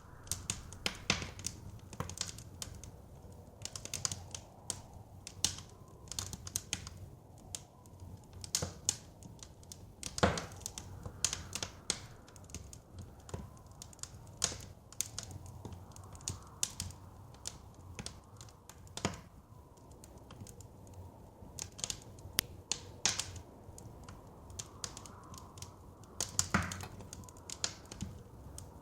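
Wood fire crackling in a fireplace, with irregular snaps and a few louder pops, over a steady low rumble of blizzard wind.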